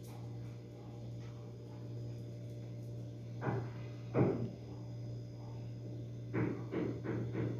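A few short, dull knocks over a steady low hum: two single knocks about halfway through and a quick run of them near the end.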